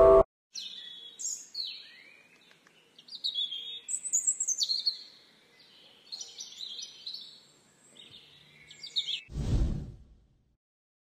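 Birds chirping and trilling in short, high phrases for about nine seconds. Then comes a short, loud whoosh, and the sound drops away.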